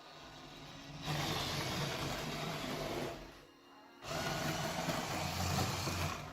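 A small electric motor runs in two bursts of about two seconds each, starting and stopping abruptly, with a gap of about a second between them.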